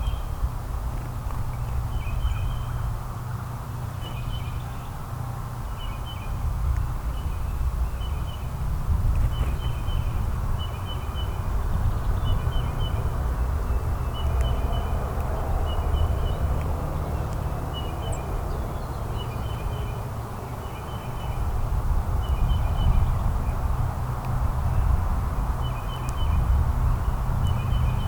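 A small bird gives short double chirps over and over, about once a second. A steady low rumble of outdoor background noise runs under them and is louder than the chirps.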